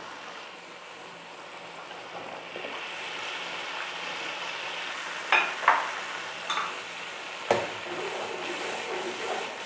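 Hot oil and onion-garlic masala sizzling in a pan as tomato paste is poured in; the sizzle grows louder a couple of seconds in. Midway a few sharp clinks of a steel spoon against the pan as the paste is stirred.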